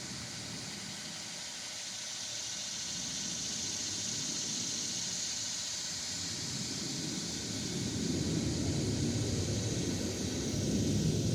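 A steady high-pitched buzz of cicadas singing in the trees, swelling around the middle, while a low rumble builds over the last few seconds.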